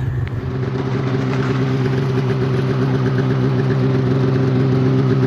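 A motor vehicle's engine idling steadily. The sound shifts about a third of a second in, then holds an even, unchanging tone.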